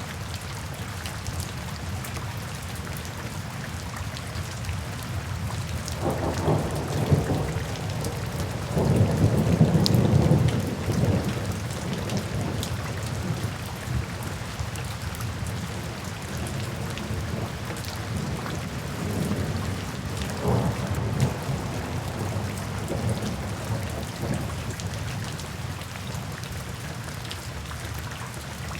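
Steady rain falling, with thunder rumbling low: a roll about six seconds in that builds to its loudest around ten seconds, then a weaker roll around twenty seconds.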